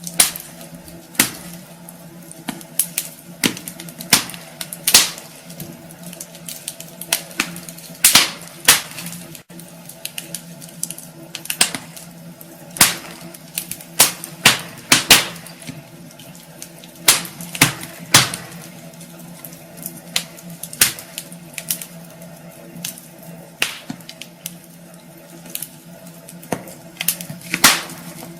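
Wood fire burning in a fireplace: burning logs crackling and popping in irregular sharp snaps, over a faint steady low hum.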